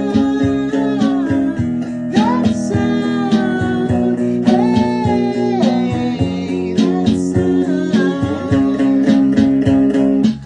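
Guitar music: plucked acoustic guitar over a steady low note, with a melody that slides up and down between notes.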